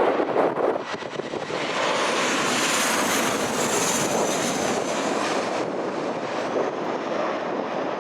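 Aircraft engines passing close by, swelling to a loud rushing noise and dropping away after a few seconds, with strong wind buffeting the microphone at the start.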